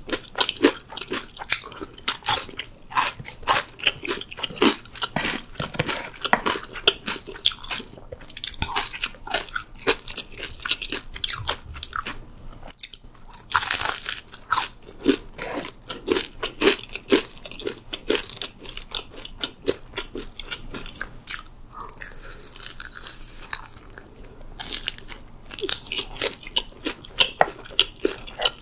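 Close-miked crunchy chewing, first of pickled radish cubes, then a loud crunching bite into a piece of seasoned fried chicken about fourteen seconds in, followed by more chewing.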